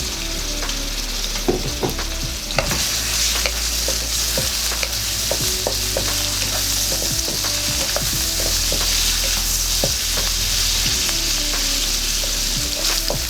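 Prawns sizzling in hot sesame oil in a wok, with a steady hiss, while a utensil stirs them and knocks against the pan again and again.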